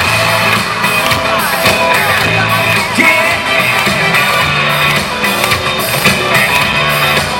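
Live band playing the instrumental intro of an upbeat pop dance song, with a steady beat and a repeating bass line.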